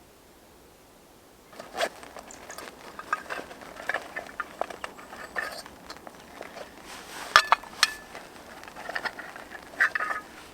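Metal camp cookware being handled: a run of clinks, knocks and rattles, with a few short metallic rings, starting about a second and a half in.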